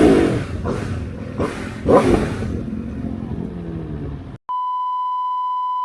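Aprilia RSV4 1100 Factory's V4 engine on the move, revving up twice over wind noise. It cuts off abruptly about four and a half seconds in, replaced by a steady, high electronic beep tone.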